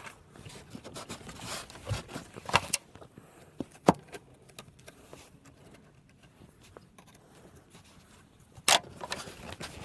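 Scattered metallic clicks and clinks of hand tools and small fittings being handled while working on diesel fuel return lines. There is a sharp click about four seconds in and a short clatter near the end.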